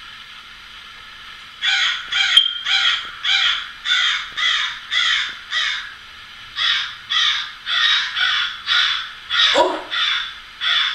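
A recording of a crow cawing, played back as a demonstration. There are two runs of quick, harsh caws, about two to three a second, with a short break between the runs.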